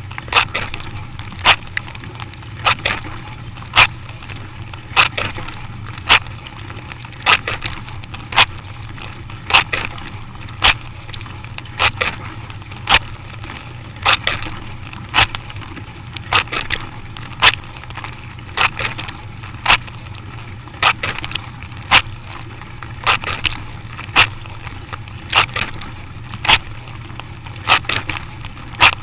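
A machine running with a steady low hum and a sharp crack repeating evenly, a little more often than once a second.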